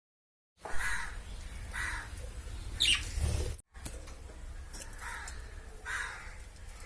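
Small pet parrots chirping: a few short, scattered calls and one rising call about three seconds in, over a low rumble.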